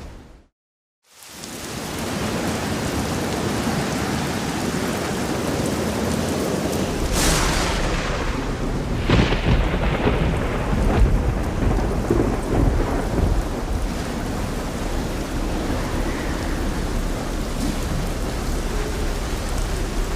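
Steady light rain that briefly drops out to silence about a second in, then fades back. About seven seconds in, a thunderclap cracks, followed by further cracks and a rolling rumble of thunder that dies away after several seconds under the continuing rain.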